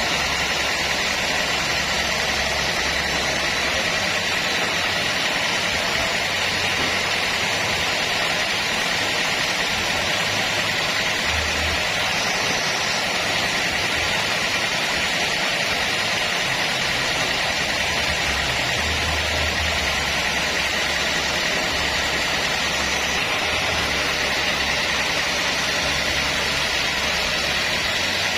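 Homemade band sawmill running, a steady loud hiss with a low hum underneath that swells and fades every few seconds.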